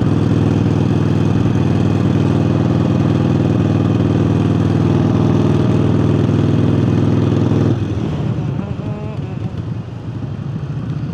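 Harley-Davidson Forty-Eight V-twin with a new aftermarket air intake, running loud and steady under throttle while riding. About three-quarters of the way through, the engine note drops away and gets quieter as the throttle is closed.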